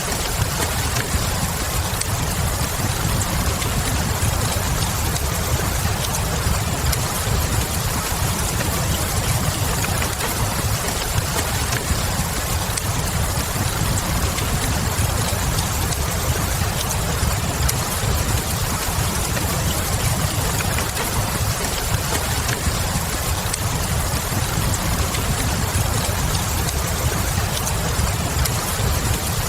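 Wood fire crackling in a fireplace over steady falling rain, with a steady low rumble beneath and scattered crackles.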